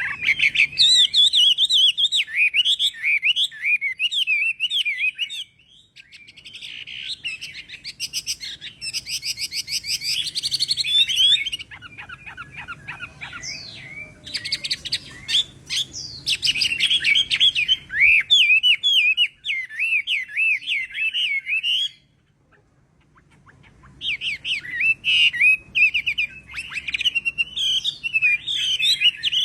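Chinese hwamei (họa mi) singing: long, varied phrases of rapid warbling and trills, broken by a short pause about five seconds in and a longer one past twenty seconds.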